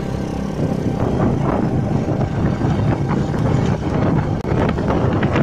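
Motorcycle running on the move, with strong wind buffeting the microphone; about half a second in, the steady engine note gives way to a choppy, uneven rumble.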